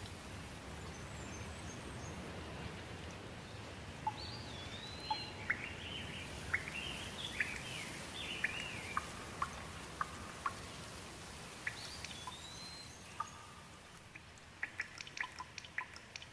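Steady rain with birds calling over it: a run of short chirps and rising-and-falling whistled calls from about four to thirteen seconds in. Near the end the rain thins and separate drips tick.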